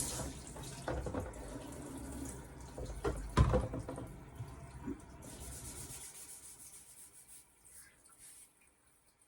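Tap water running over a splash-and-go whetstone as it is rinsed in a sink, with a sharp knock about three and a half seconds in. The water fades away over the last few seconds.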